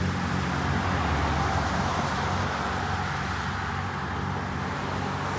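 Steady road traffic noise, with a motor vehicle's low hum fading away over the first few seconds.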